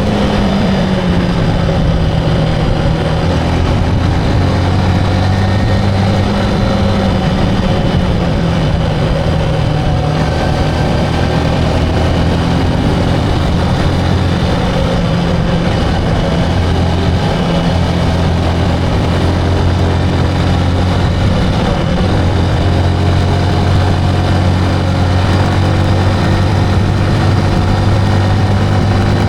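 Motorcycle engine running steadily while riding, its note shifting slightly in pitch a few times.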